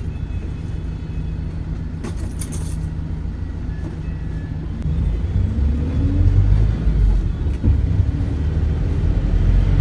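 Bus engine and road rumble heard from inside the bus: steady at first, then louder from about halfway through with a rising engine note as it gathers speed. There is a short burst of hiss about two seconds in.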